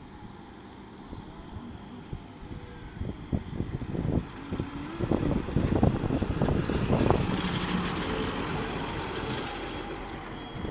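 John Deere 6930 tractor's turbocharged six-cylinder diesel engine running, growing louder from about four seconds in, with a high turbo whistle over the engine note.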